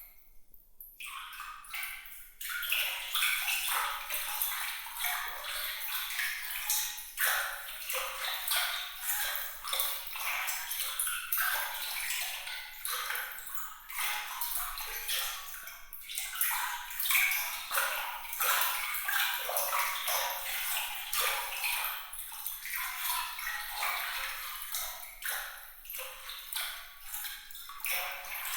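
Water trickling and splashing in a continuous sparkling patter of small droplet sounds, all bright and high with no low rumble; it thins out briefly at the very start.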